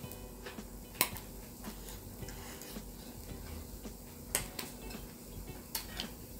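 Eating sounds at a table: three sharp clicks, one about a second in and two more near the end, over a faint steady hum.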